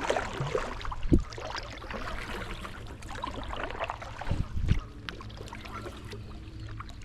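Canoe paddle strokes in lake water: splashing and dripping, with a few low thuds, about a second in and twice more past the middle.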